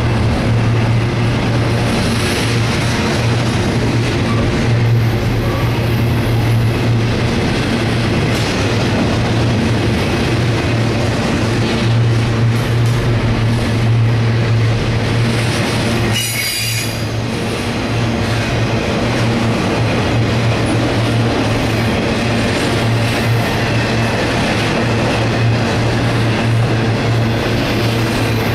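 CSX intermodal freight train's loaded well cars rolling past close by: a loud, steady rumble and rattle of steel wheels on the rails.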